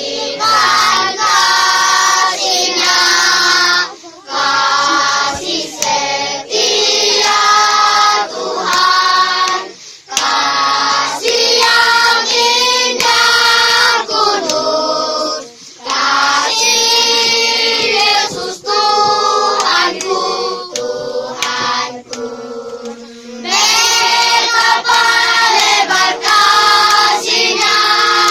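Choir singing a sacred song in phrases, with short pauses between them.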